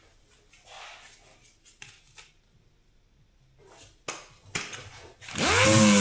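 A few clicks and knocks of handling, then about five seconds in a small electric motor switches on, winds up quickly in pitch and settles into a steady run.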